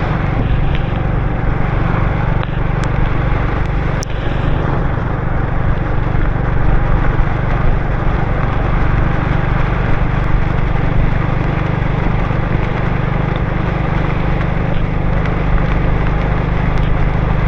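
Motorbike riding on a rain-wet road: the engine's steady low hum under a continuous rush of tyre and road noise, with a sharp tick about four seconds in.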